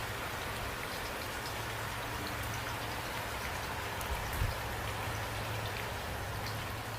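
Steady rainfall, an even hiss with scattered drops ticking on a surface and a low rumble underneath; one brief low thump about four and a half seconds in.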